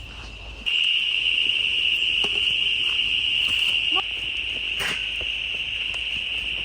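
Steady, high-pitched insect chorus buzzing without a break; it gets louder about a second in.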